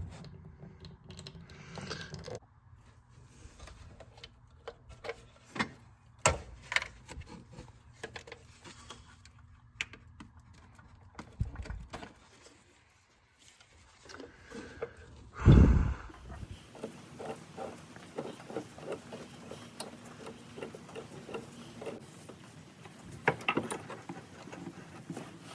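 Irregular clinks, taps and knocks of hand tools and metal parts on an engine being disconnected for removal, with one heavy thump about two-thirds of the way through.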